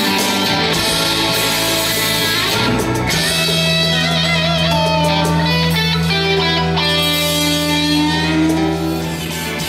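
Rock band playing an instrumental passage live, led by electric guitar. About three seconds in, a low note is held steady while a lead line wavers with vibrato above it.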